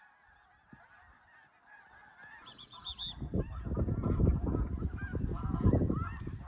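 A dense chorus of snow geese calling, many overlapping short honks. From about three seconds in, a loud low rumble builds up under the calls and becomes the loudest sound.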